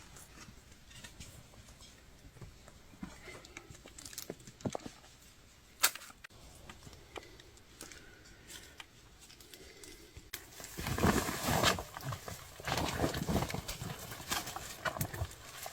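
A few scattered knocks and clicks, then from about ten seconds in a dense run of rapid knocking and scraping, like a digging tool striking into soil and stones.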